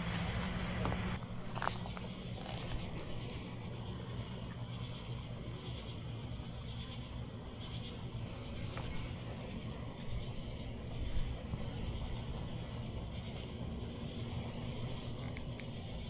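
Night insects, crickets or similar, trilling in a steady high-pitched chorus that breaks off for a moment a few times.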